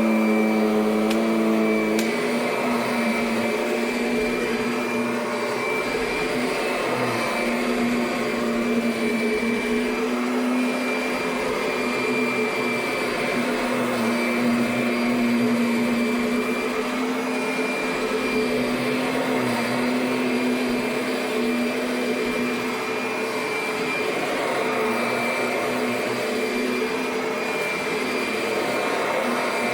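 2009 Kirby Sentria upright vacuum cleaner running steadily with a constant motor whine; its pitch shifts about two seconds in, then holds. The owner was not sure, but thought it sounded like something was rubbing inside.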